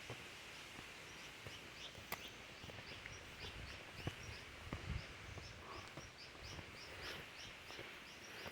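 Faint outdoor ambience: a steady hiss with a small bird chirping repeatedly, short high chirps about twice a second, and a few scattered soft clicks.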